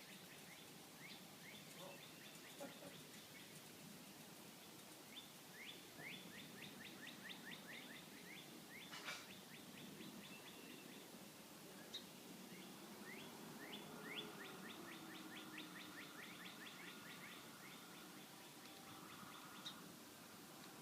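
Faint songbird song: two trills of quick, downward-sliding chirps, each lasting a couple of seconds, one about a third of the way in and one past the middle, with scattered single chirps between.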